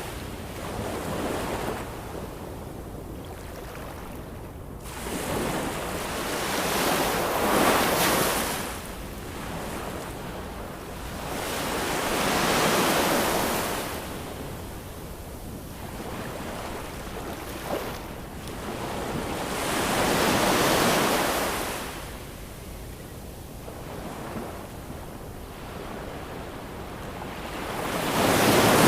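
Ocean waves breaking and washing onto the shore, surging in about every six to eight seconds and ebbing between. The biggest surge comes near the end.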